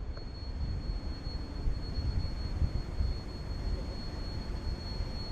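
Low, steady rumbling noise with a thin, high-pitched whine over it.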